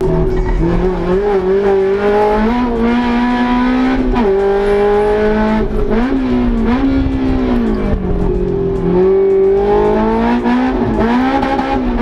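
Honda S2000's high-revving four-cylinder VTEC engine running at high revs. Its pitch holds high and dips briefly a few times before climbing again.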